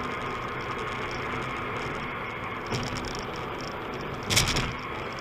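Steady road and engine noise of a car driving, with a light click about two and a half seconds in and a short, sharp thud a little past four seconds in.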